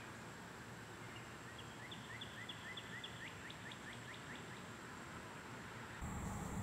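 A bird calling faintly over steady outdoor background noise: a run of about a dozen short rising chirps, about four a second, lasting about two and a half seconds. Near the end the low background noise suddenly gets louder.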